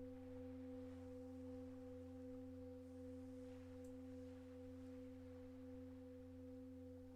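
Singing bowl ringing one steady, sustained tone with overtones, slowly fading.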